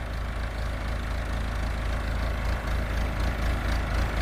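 Backhoe's diesel engine running steadily with a low rumble.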